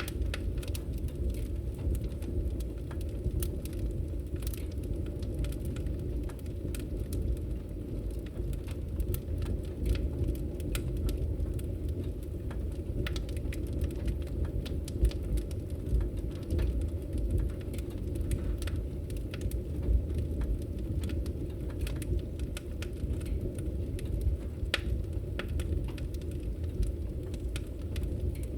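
Wood fire burning in a fireplace, crackling with frequent small pops and an occasional louder snap over a steady low rumble of the flames.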